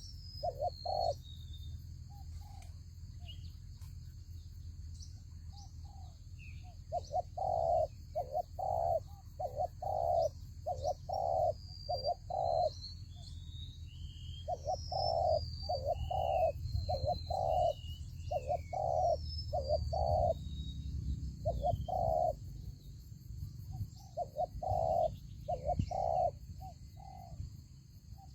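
Spotted doves cooing in repeated phrases of short, low coos that come in groups with pauses between. Small birds give brief high chirps above them, over a steady low rumble.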